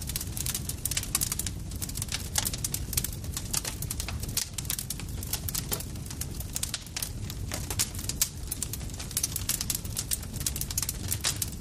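Campfire burning with dense, irregular crackles and pops over a steady low rumble of the flames.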